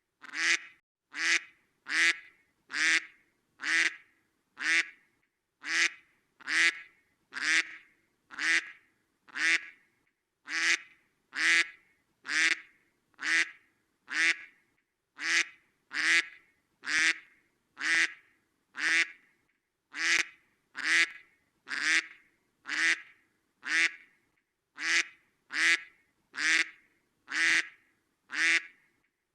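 Domestic duck quacking: single short quacks repeated at an even pace, about one a second, each alike.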